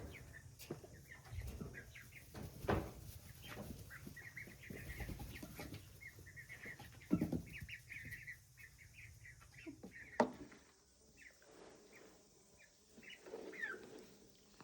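Baby chicks cheeping in short high chirps, busiest in the middle, with a few sharp knocks and a soft rustling that dies down after about ten seconds.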